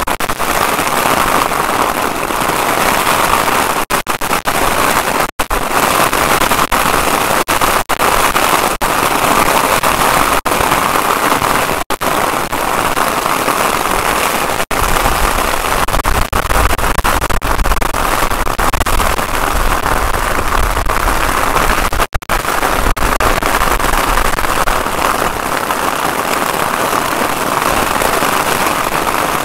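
Heavy rain pouring down in a storm, a dense steady hiss, with wind buffeting the microphone. The wind rumble grows heavier for several seconds around the middle.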